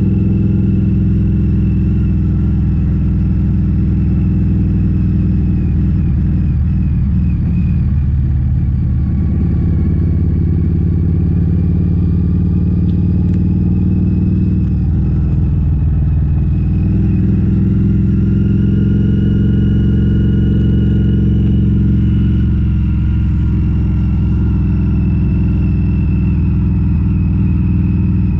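Harley-Davidson V-Rod V-twin motorcycle engine running steadily, its pitch easing down and climbing back up twice.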